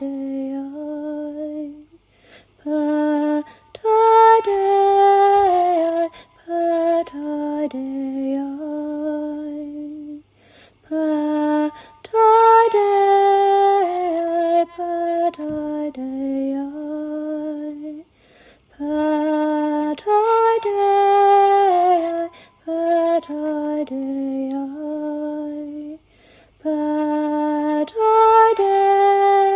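A woman's solo voice singing a slow, lullaby-like chant melody with no accompaniment. Short phrases are separated by brief silent breaths, and the melodic pattern repeats about every eight seconds.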